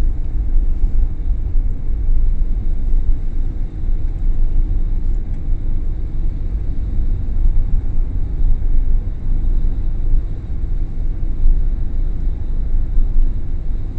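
Steady low rumble of a vehicle driving along a road, heard from inside the cab: engine and tyre noise with no change in speed.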